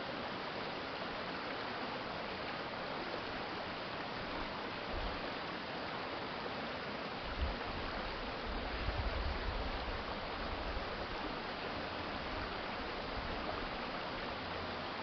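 Steady rushing of water in a city stream. A brief low thump comes about seven seconds in, followed by a low rumble lasting a second or two.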